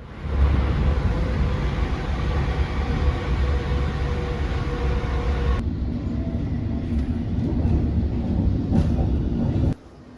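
Train running, a loud steady rumble and rattle of a moving rail vehicle. The sound changes abruptly about halfway through and cuts off suddenly near the end.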